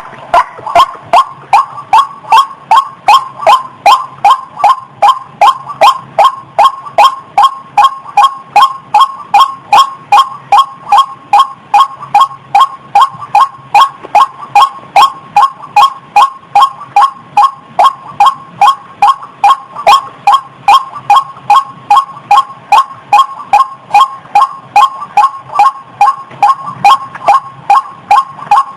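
A female rail (ayam-ayaman / ruak-ruak) in breeding condition calling. It repeats one short note in a steady rhythm of about two and a half notes a second, without a break.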